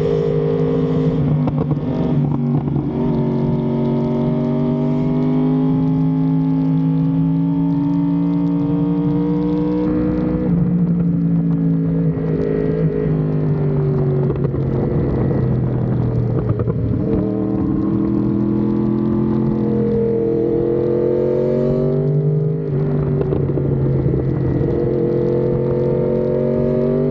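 A vehicle engine running steadily under way, its pitch holding or climbing slowly and shifting down sharply about ten, seventeen and twenty-three seconds in.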